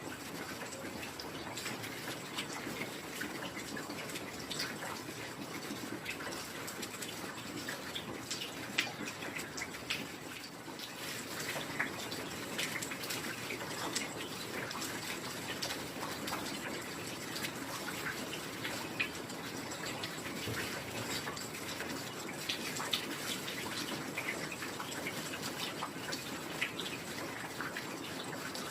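Steady heavy rain, with many scattered drops and drips ticking and splashing close by.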